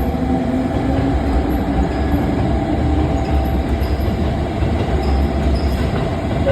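JR Kyushu 787 series limited express train running through the station: a steady rail rumble, with a motor whine slowly rising in pitch over the first few seconds.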